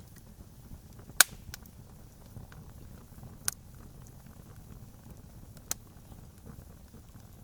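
Campfire crackling: wood burning with a low steady rumble, small ticks and three sharp pops, the loudest about a second in, then others about halfway through and near the end.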